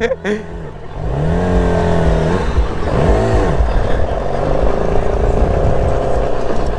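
Motorcycle engine revving up and holding about a second in, a quick rev blip about three seconds in, then running steadily under way.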